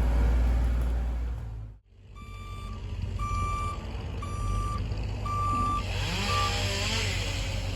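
A truck's reversing alarm beeping about once a second, five beeps over the low running of a diesel truck engine. Before the beeps there is a louder engine rumble that cuts off, and a steady hiss comes in near the end.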